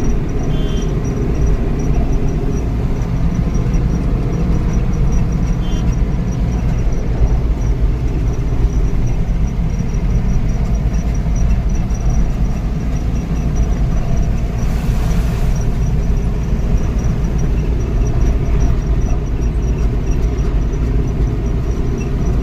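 Truck engine and road noise while driving: a steady low rumble, with a brief hiss about fifteen seconds in.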